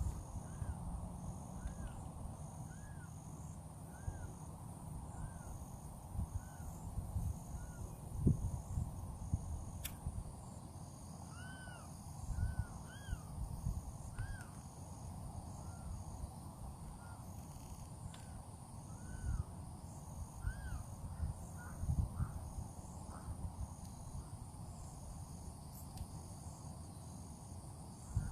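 Birds calling over and over in short arched calls, about one a second, with a steady pulsing insect chirr higher up and an uneven low rumble of wind on the microphone.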